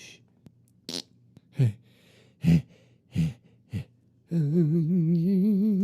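A man's voice making nonverbal sounds: a short hiss, four brief falling vocal sounds, then a long hum that wavers up and down in pitch.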